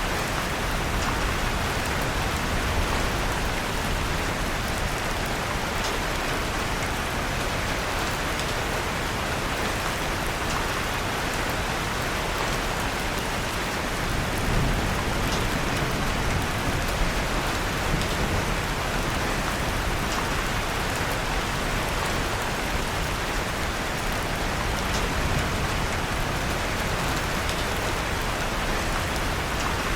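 Steady rain falling, mixed with the faint scattered crackle of a wood fire in a fireplace. There is a brief low swell about halfway through.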